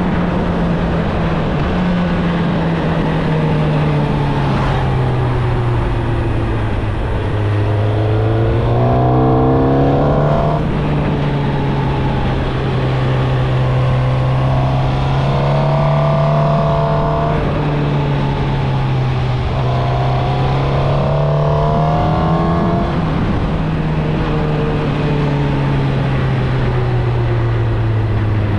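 Suzuki GSX-R1000 inline-four engine through its stock exhaust, heard from the moving bike: the engine note rises and falls with the throttle, with three stronger rising pulls, about a third, halfway and three-quarters of the way through, over a steady rush of wind.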